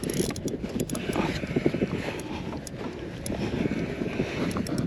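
Wind buffeting the microphone over water moving around a kayak: a steady rough rushing with small irregular crackles.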